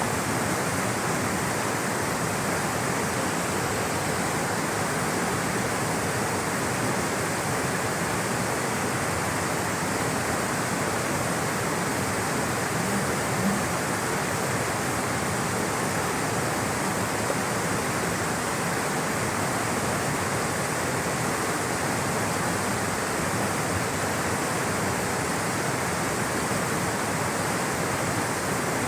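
Rushing sound of flowing water, a steady, even rush that does not change.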